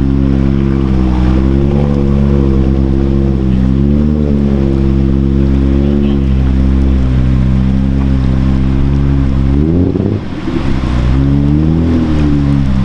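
Off-road truck engine working under load, its revs swelling and easing several times, with a sharp rev-up near the ten-second mark followed by a brief dip and another swell, as it drives through deep water.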